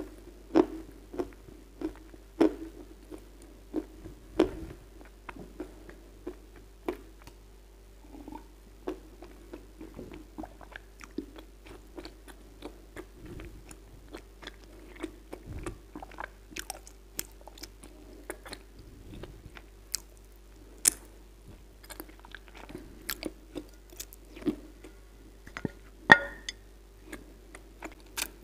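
Close-miked chewing and biting of wet-crunch Kyrgyz edible clay: irregular crisp crunches and little clicks of the mouth, with a faint steady hum underneath.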